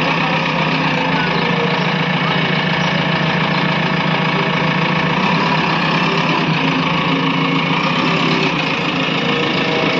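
An engine running steadily at an even pace, with no revving.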